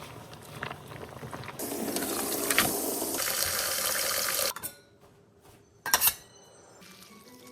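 Water running from a kitchen tap for about three seconds, then shut off abruptly, followed by a sharp knock or two.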